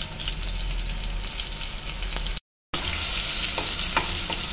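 Onion puree sizzling and crackling in hot oil with cumin seeds in a non-stick kadai, and a spoon stirring through it. The sizzle drops out to silence for a moment just past halfway, then comes back a little louder with sharper clicks.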